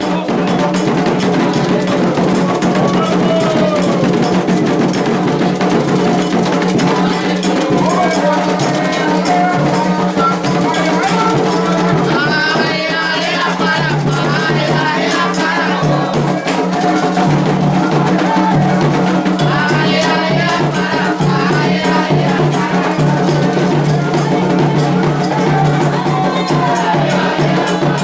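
Candomblé ceremonial music: drumming and hand percussion with voices singing over it.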